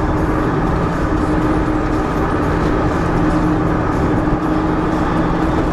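Steady engine and road noise of a moving car heard from inside the cabin, an even rumble with a constant hum.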